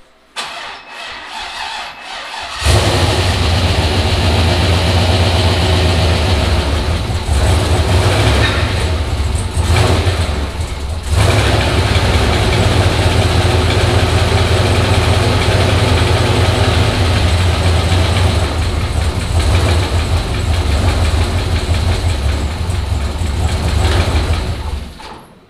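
Turbocharged 5.3-litre LS V8 being cranked on the starter for a couple of seconds, then catching and running loud, with a brief dip about ten seconds in, before being shut off near the end. This is the engine's first start since its rebuild with a replacement connecting rod.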